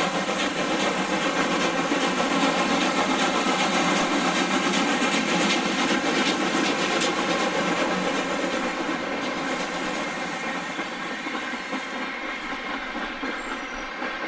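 A train rolling past on rails, its clatter swelling in the first seconds and then slowly fading as it moves off.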